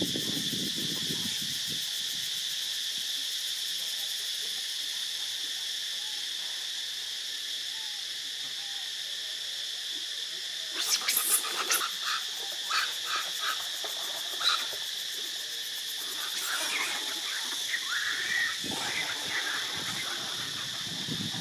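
A steady, high-pitched chorus of insects throughout. About halfway in, a run of sharp clicks and chirps joins it, followed near the end by several short, wavering high calls from an animal.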